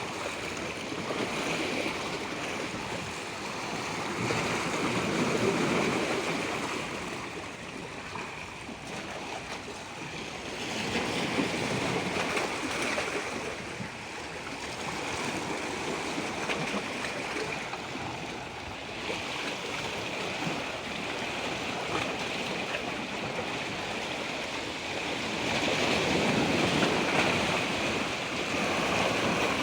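Rushing water, the noise swelling and easing every several seconds, with a faint steady high tone underneath.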